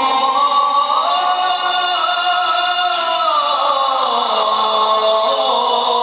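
A male Quran reciter chanting in the melodic tajweed style, holding one long ornamented phrase that rises about a second in and then falls in pitch near the middle.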